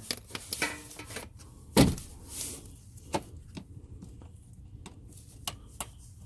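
Scattered clicks and knocks of a screwdriver prying at the plastic push-pin fasteners on a Toyota Prius v's engine undercover. The loudest knock comes about two seconds in, with fainter ticks after it.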